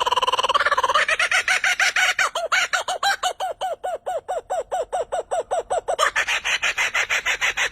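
A bird calling: a brief wavering trill, then a fast string of short, repeated pitched notes, about six a second, that keeps going.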